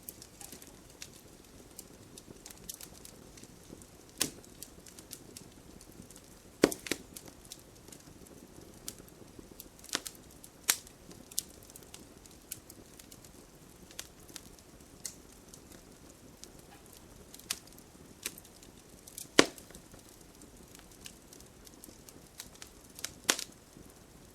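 Wood campfire burning with a low steady hiss, crackling and snapping with sharp pops at irregular intervals. The loudest pops come about seven seconds in and again near the end.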